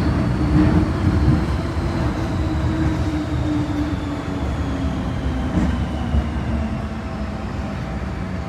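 MTR M-Train metro train running, with a deep rumble under the electric traction-motor whine, which falls steadily in pitch as the train slows.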